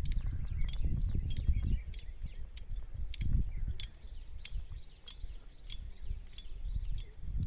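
Garden ambience: a steady, high, fast-pulsing insect trill with scattered faint chirps and ticks, over irregular low rumbling that swells and fades, strongest about a second in and again a little after three seconds.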